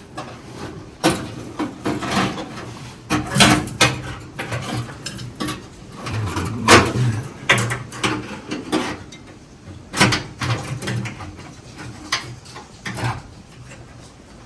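Irregular knocks, clinks and rubbing of hand work on metal car parts, a brake line and its clamp hardware being handled and fitted.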